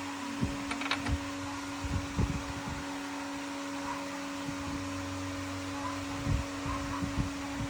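A steady motor hum, with scattered low thuds and a few light metallic clicks about a second in.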